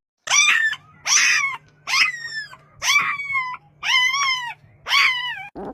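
An animal giving six short, high-pitched cries about a second apart, each rising briefly and then falling in pitch, over a faint steady low hum.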